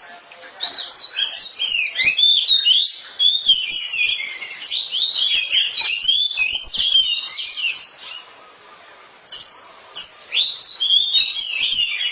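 Oriental magpie-robin (kacer) singing: a fast run of varied whistles, chirps and sliding notes, breaking off for about a second past two-thirds of the way through, then picking up again.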